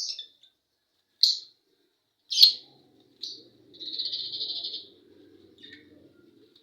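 Lovebirds calling: four short, shrill chirps about a second apart, then a longer scratchy chatter about four seconds in, followed by a few faint chirps.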